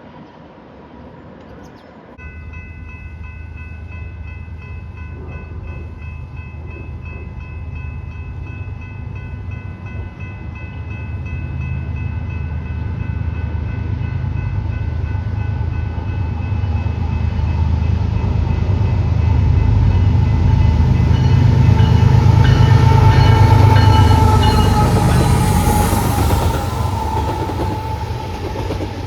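A diesel-hauled train approaching and passing: a deep engine rumble starts about two seconds in and grows louder for some twenty seconds, peaking near the end, with steady whining tones above it and a tone that falls slightly as the train goes by.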